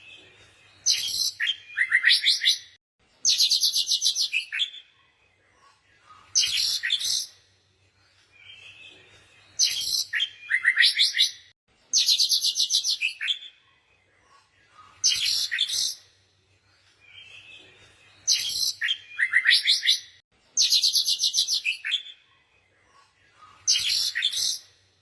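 Songbird singing: bursts of fast chirps and trills, each a second or two long, separated by short pauses.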